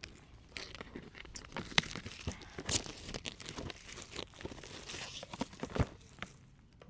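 Drone box packaging being worked open by hand: the seal and wrapping are torn and crinkled, with sharp crackles and clicks, a hard-to-open seal. It eases off near the end.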